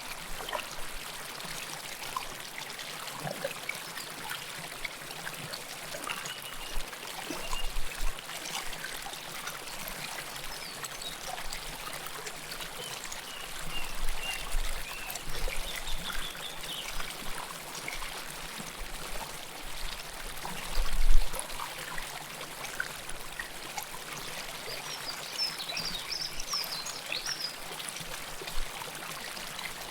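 River water flowing close up: a steady rush with trickling and gurgling, broken by a few brief low rumbles, the largest about two-thirds of the way through.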